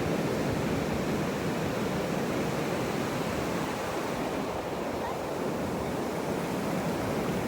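Atlantic Ocean surf: waves breaking and washing up the beach in a steady rush.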